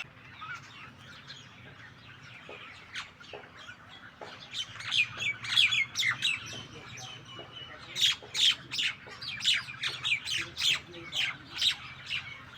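A group of starlings and mynas calling, many short overlapping calls, sparse at first and growing busy from about halfway through.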